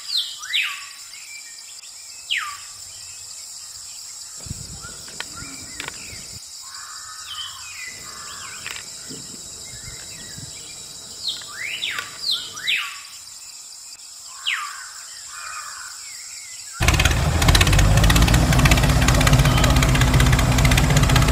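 Birds chirping in short clusters of quick falling calls over a steady high background hum. About seventeen seconds in, a loud engine-like running sound cuts in abruptly.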